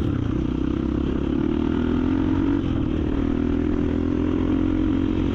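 Small motorcycle engine running steadily while riding along at an even speed.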